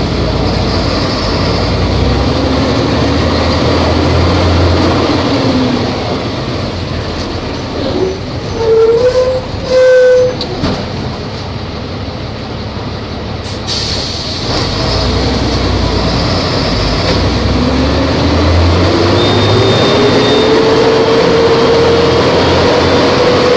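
Volvo B270F bus engine running under way, its pitch rising slowly as it pulls and falling away, then climbing again in the last few seconds. Two short, very loud bursts come a little before the middle.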